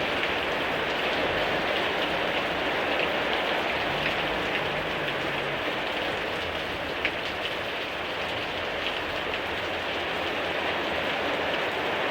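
Heavy summer thunderstorm downpour, rain pouring steadily with a few sharper drop impacts, the loudest about seven seconds in.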